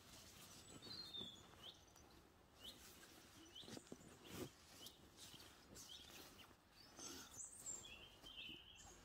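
Faint woodland bird chirping: a short high call repeated about once a second, with a few brief twittering notes. Soft rustling of sleeping-bag fabric being handled.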